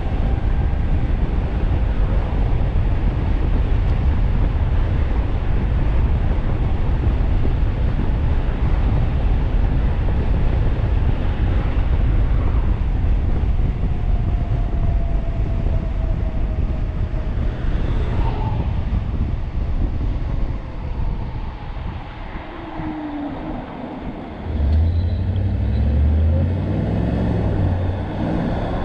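Wind buffeting the microphone with road noise as a 1500-watt e-bike rides fast down a street. It eases off briefly about twenty seconds in, then a louder low rumble comes in about twenty-five seconds in.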